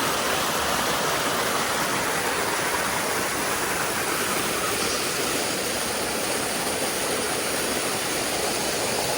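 Waterfall rushing steadily: falling water splashing, an even, unbroken wash of sound.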